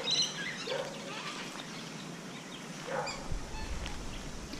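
Wild birds giving short, high chirping calls, a few near the start and more around three and a half seconds in, over a low rumble on the microphone from a little after three seconds.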